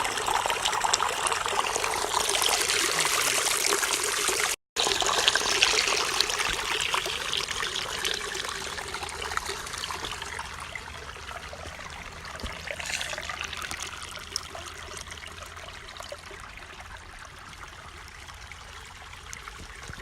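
Water trickling and flowing in a small stream, a steady rushing splash. There is a brief dropout about four and a half seconds in, and after that the sound slowly grows fainter.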